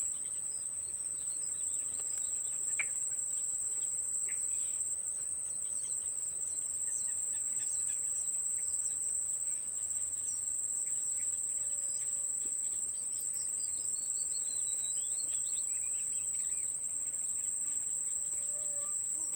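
A steady, high-pitched insect trill, with faint scattered bird chirps over it; a quick run of falling chirps comes about two-thirds of the way in.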